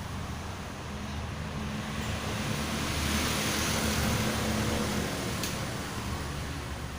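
A motor vehicle's engine running, growing louder a few seconds in and then easing off, with one sharp click about five and a half seconds in.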